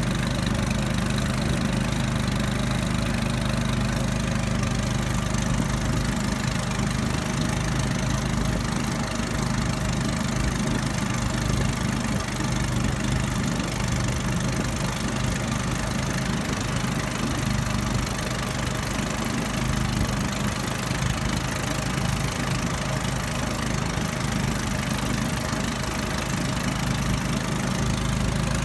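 A river raft's small outboard motor running steadily, a low even drone with a constant hiss over it.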